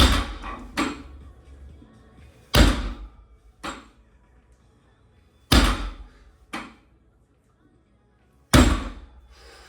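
Weights thudding onto a gym floor about every three seconds, four times, each heavy thud followed by a lighter knock about a second later.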